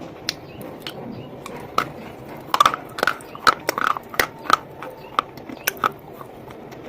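Hard slate-stone pieces being bitten and crunched in the mouth: a run of sharp, crisp cracks, a few at first, coming quick and close together in the middle, then thinning out.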